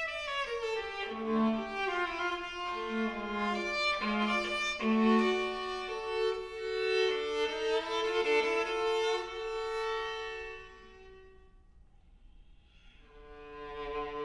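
Viola music played live: long bowed notes rich in overtones. The phrase dies away about ten seconds in, and after a short near-quiet pause the playing starts again shortly before the end.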